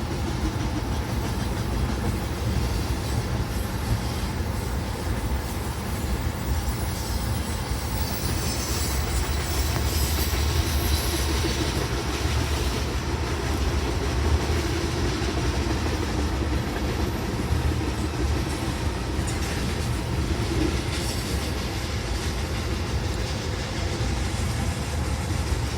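BNSF freight train of loaded tank cars rolling past, a steady rumble of steel wheels on the rails.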